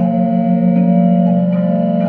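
Effects-laden drone music: a steady low drone with held higher tones above it, and a fast wavering flutter that comes in about a second and a half in.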